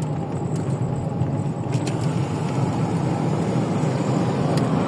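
Steady road noise of a moving car heard from inside the cabin: engine and tyre rumble, mostly low in pitch, with a few faint brief clicks.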